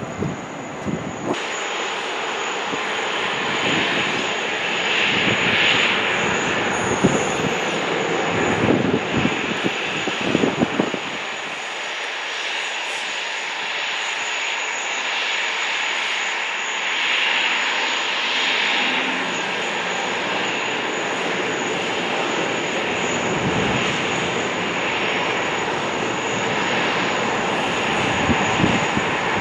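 Jet airliner engines running, a steady rushing noise with a thin high whine. Wind buffets the microphone in gusts during roughly the first ten seconds.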